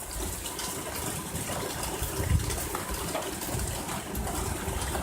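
Steady rainfall, an even hiss of rain, with a low rumble underneath.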